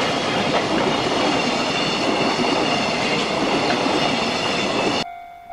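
JR Freight container train of Koki container flatcars running past over a level crossing: steady loud rumble and clatter of wheels on rail joints, with a faint high squeal. It cuts off abruptly near the end, and a ringing tone pulsing about twice a second follows.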